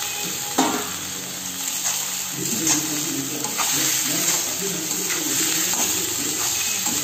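Capsicum and onions frying in hot oil in a kadai: a steady sizzle, with the scrapes and knocks of a metal spatula stirring them.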